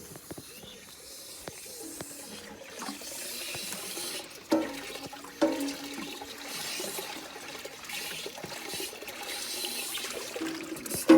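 Water running and splashing, with hollow knocks about four and a half and five and a half seconds in and again at the end.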